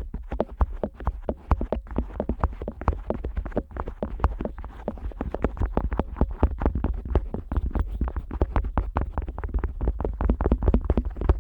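An otoscope rubbing and tapping on the ear flap of a Neumann KU100 dummy-head microphone, heard close up: a rapid, uneven stream of soft clicks, several a second, over a low rumble.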